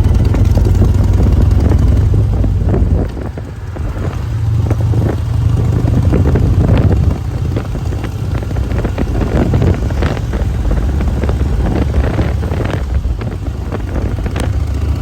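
Harley-Davidson motorcycle engine running on the move, with wind buffeting the microphone. The engine falls off about three seconds in, then builds again.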